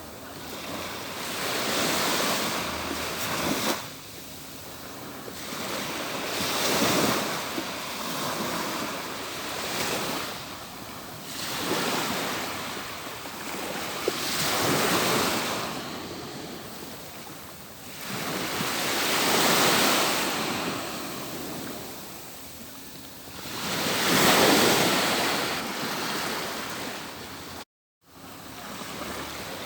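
Atlantic Ocean surf: waves breaking and washing up a beach, the rush swelling and fading about every four to five seconds. The sound cuts out completely for a split second near the end.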